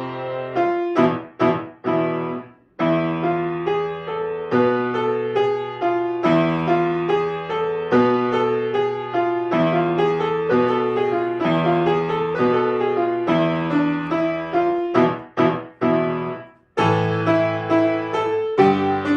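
Solo piano playing a piece of chords over a bass line, with a few short detached chords leading into brief pauses about three seconds in and again near the end.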